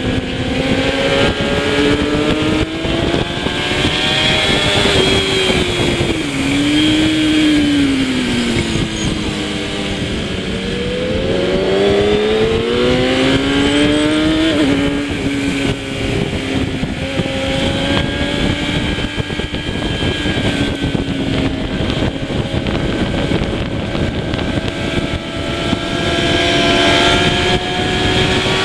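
Kawasaki ZX-10R superbike's inline-four engine running hard at racing speed, its pitch rising and falling with throttle and gear changes. The pitch sinks lowest about ten seconds in, climbs steeply, then drops suddenly at a gear change about halfway through.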